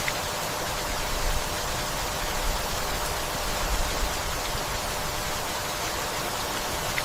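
Steady rain falling, an even hiss, with a few short low rumbles in the first half.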